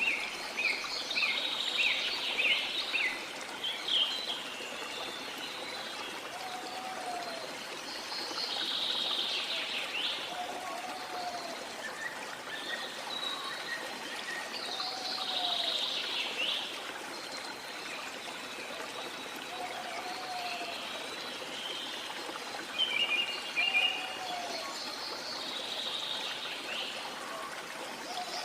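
Waterfall's steady rush of falling water with tropical birds chirping and calling over it, the chirps busiest near the start and again late on. A short, low call recurs every few seconds beneath the birdsong.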